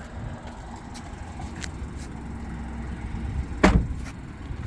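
Car door of a 2024 Chevrolet Trax being shut with one solid thump about three and a half seconds in, after a few light clicks of the door being handled.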